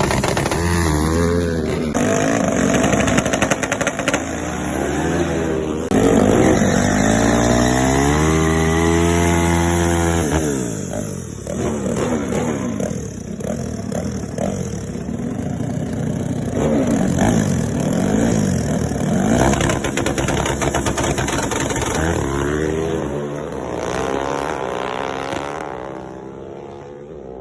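Motorcycle engines revving and accelerating hard, the pitch climbing in repeated rising sweeps and dropping back, as drag bikes run.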